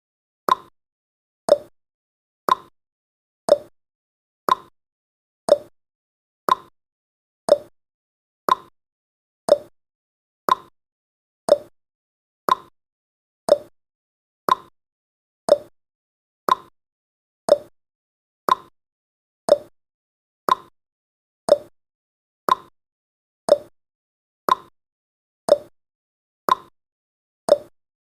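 Countdown timer's clock tick-tock sound effect: one sharp tick every second, evenly spaced, counting down the final seconds.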